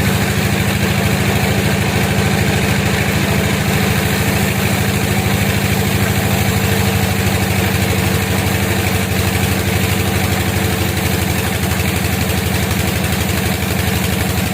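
A sawmill's engine running steadily at an even speed, a low pulsing drone with no change in pitch.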